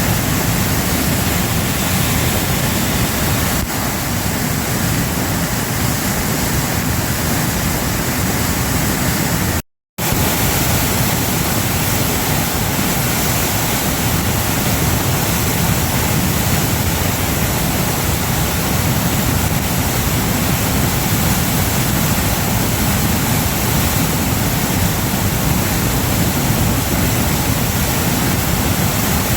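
Waterfall rushing: a loud, steady roar of falling water. It drops out for a fraction of a second about ten seconds in, then resumes unchanged.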